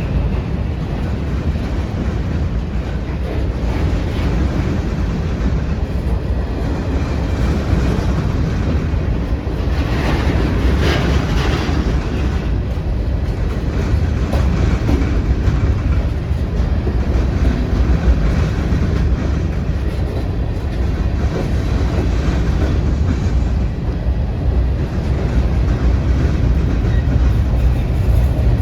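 A train rolling past, a steady loud rumble of railcar wheels on the rails, with a brief harsher rattle about ten seconds in.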